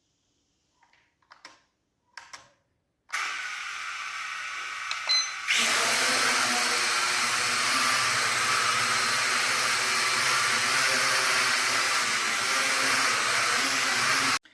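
Small quadcopter drone's motors and propellers whirring: they start about three seconds in, run much louder from about five and a half seconds on, and cut off suddenly near the end.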